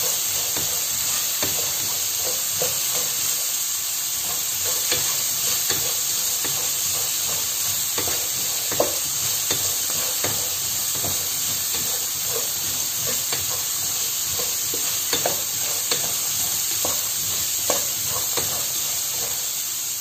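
Soaked green peas sizzling as they roast in a non-stick pot, stirred with a wooden spatula: a steady sizzle with frequent light clicks and scrapes of the spatula and peas against the pan.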